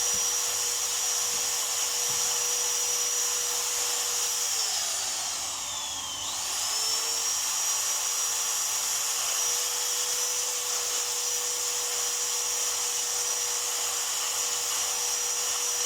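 High-speed electric power tool motor whining steadily. About four and a half seconds in it is let off and spins down, then it is squeezed again and quickly spins back up to full speed.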